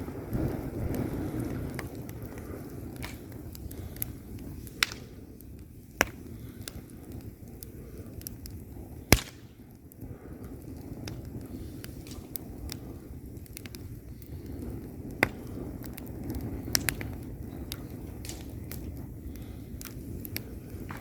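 Log fire burning in a fireplace: a low steady rumble of flame with scattered sharp crackles and pops from the wood. The loudest pop comes about nine seconds in.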